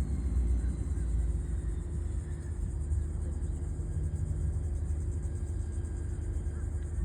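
Steady low engine rumble with a faint steady hum, without let-up.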